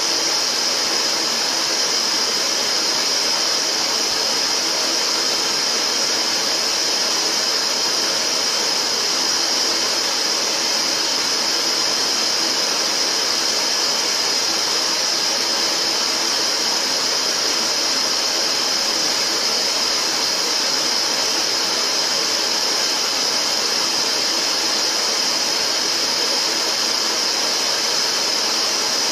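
Steady synthetic colored-noise track: an even, unbroken hiss, strongest high up and thin in the bass.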